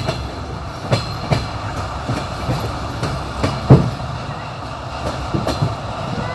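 Train wheels clacking over rail joints over the steady rumble of a moving railway carriage, heard from inside the train. The knocks come irregularly, the loudest a little under four seconds in.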